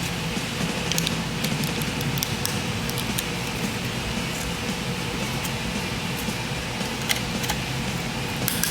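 Scattered light clicks and taps of metal parts and hand tools being handled, over a steady background hum.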